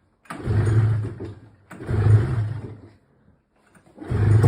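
Arctic Cat Cougar 550 snowmobile two-stroke engine, fitted with a new muffler, firing in short bursts of about a second each with near-silent gaps between. The third burst starts near the end.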